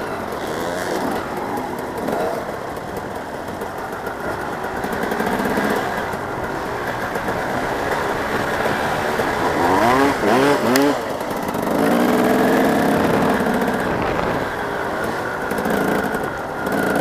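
Motocross bikes' engines running and revving, several at once, with a quick run of rising and falling revs about ten seconds in.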